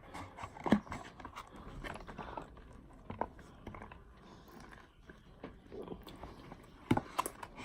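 Biting into and chewing a Big Mac, with irregular wet mouth clicks and smacks.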